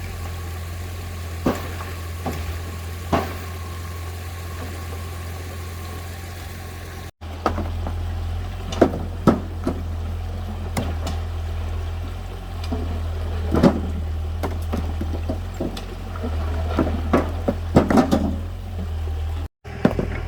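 A tractor engine running steadily at a low idle, with sharp knocks and clatters of stones being loaded, coming more often in the second half.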